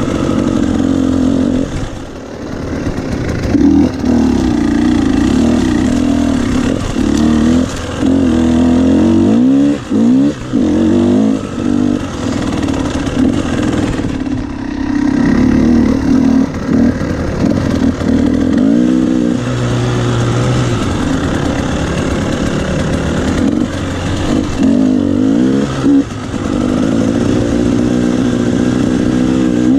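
Motocross bike engines revving hard, the pitch climbing and dropping over and over as the throttle opens and closes.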